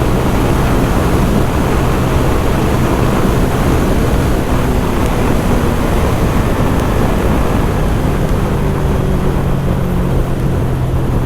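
Loncin GP 165cc motorcycle's single-cylinder engine running steadily at speed, under heavy wind rush on the microphone.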